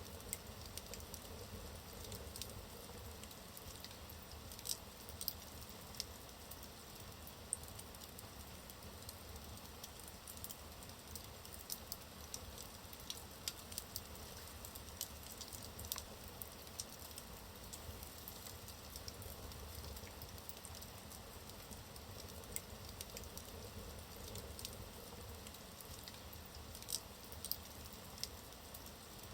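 Wood fire burning in a fireplace: a low steady rumble of flames with frequent small, sharp crackles and pops from the logs.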